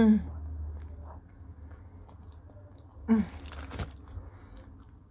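Close-up chewing of Arby's curly fries, soft mouth sounds over a low steady hum. About three seconds in comes a short hummed vocal sound, then a brief burst of rustling and a click.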